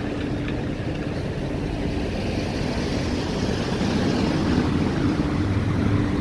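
Steady vehicle road noise with a low engine hum, swelling a little partway through.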